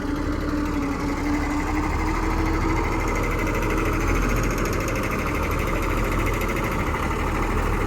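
John Deere motor grader's diesel engine running steadily with a fast, even clatter. A steady hum underneath fades out about halfway through.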